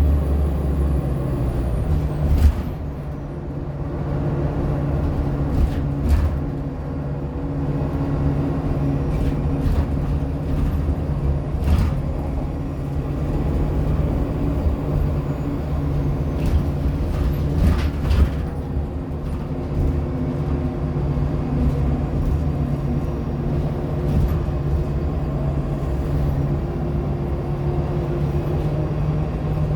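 Inside a 2014 Nova Bus LFSA hybrid-electric transit bus in motion: the drivetrain gives a steady low hum, with a few short sharp knocks.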